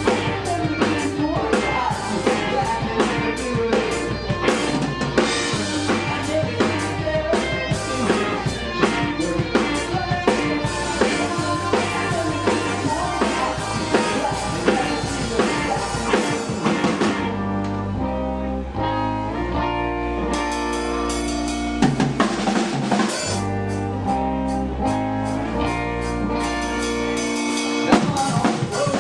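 Rock band playing live without vocals: drum kit with snare and bass drum, electric guitar and bass. About seventeen seconds in the drums drop back for a few seconds, leaving held guitar and bass notes, then the full band picks up again.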